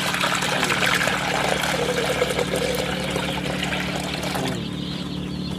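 Water mixed with tetracycline antibiotic being poured into a chick drinker, pouring steadily and stopping about four and a half seconds in.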